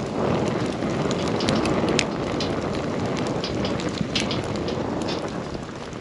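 Wood campfire burning: a steady rush of flame with frequent small crackles and pops of burning wood.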